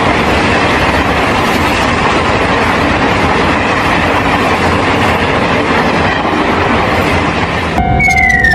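Train passing at speed: a loud, steady rush of wheel and rail noise. Near the end a steady tone and a high tone gliding down start over it.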